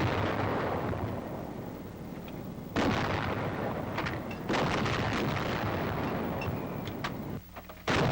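90 mm antiaircraft guns firing: three heavy shots a second and a half to three seconds apart, each with a long fading rumble.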